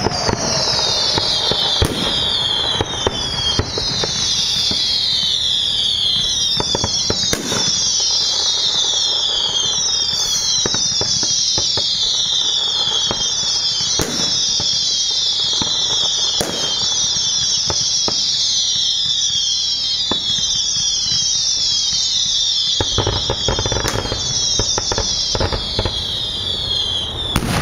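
Whistling fireworks: a continuous stream of overlapping high whistles, each falling in pitch, with scattered sharp bangs and crackles, and a burst of heavier bangs near the end.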